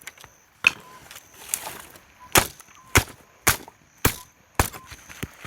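Axe chopping firewood: seven sharp strokes into the wood, about two a second after a pause following the first.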